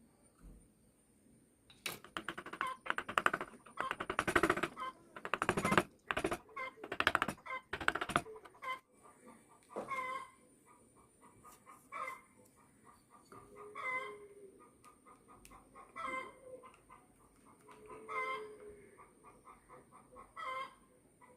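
A chicken calling: a loud run of cackling calls in the first several seconds, then shorter single calls about every two seconds.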